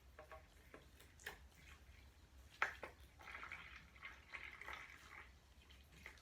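Water being poured onto a sand-filled plastic dig-kit package: a few faint drips and small knocks, then a faint uneven trickle and splash lasting a couple of seconds.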